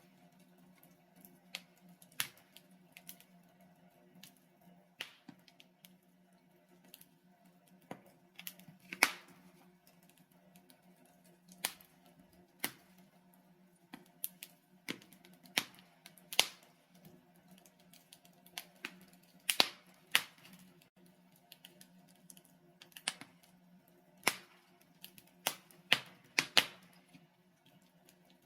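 Logs burning in a fireplace, crackling with irregular sharp snaps and pops, some much louder than others, over a faint low steady hum.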